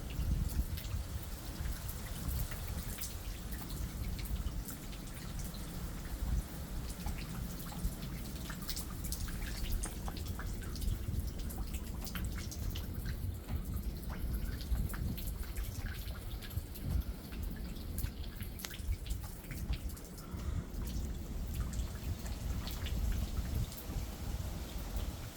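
Rain during a thunderstorm: drops and drips striking a surface in many irregular sharp ticks, over a steady low rumble.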